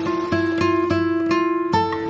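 Acoustic guitar music: plucked and strummed notes, with a run of quick repeated picked strokes through the middle.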